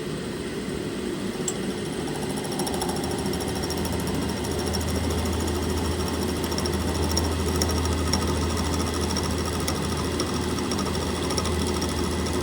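Milling cutter running and taking a cutting pass on a chainsaw muffler's carrier lug, a steady mechanical noise. A low hum comes in strongly about two and a half seconds in, and the sound grows slightly louder.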